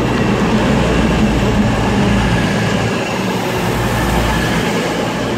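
CrossCountry Class 220 Voyager diesel multiple unit arriving at the platform: a steady drone from its diesel engines, mixed with rail and wheel noise.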